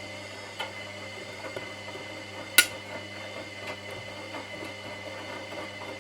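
Washing machine running with a steady hum, with sharp clinks as something hard knocks in the tumbling drum, the loudest about two and a half seconds in.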